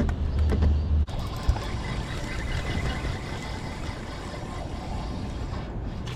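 A boat motor running steadily, with wind rumbling on the microphone; the sound changes abruptly about a second in, after which the rumble drops and an even hiss remains.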